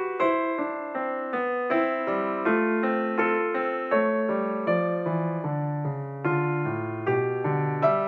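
Background piano music: a slow, gentle melody of struck notes that fade, over low held bass notes, with a stronger note about every three-quarters of a second.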